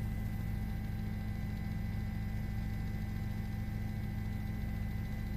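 Steady drone of a news helicopter heard through the crew's intercom feed: an even low hum with thin, constant whine tones above it.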